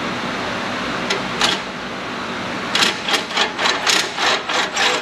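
Hand ratchet clicking in quick, even strokes, about three a second in the second half, as it backs out a loosened exhaust manifold bolt on a 5.7 Hemi through a socket and universal joint.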